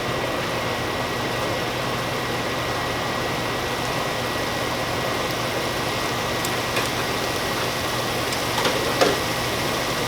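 Steady motor hum with a faint hiss from a stove's exhaust fan, over a pan of chicken and vegetables cooking on the hob, with a few light utensil clicks in the second half.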